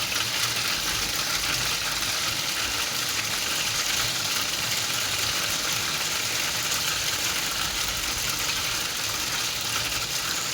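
Hailstorm: hailstones and rain falling, a steady dense patter of many small impacts.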